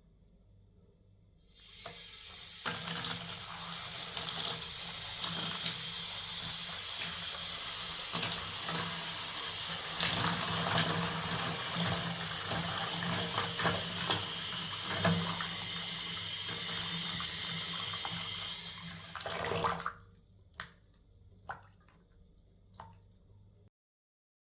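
Water tap running into a sink. It is turned on about a second and a half in and shut off near twenty seconds, and a few short clicks follow.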